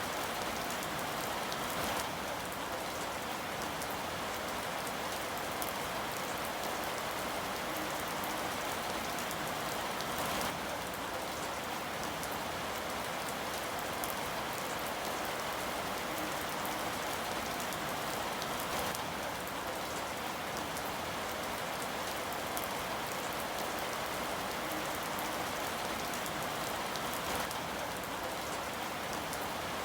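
Steady rain falling and pattering on a surface, an even continuous hiss.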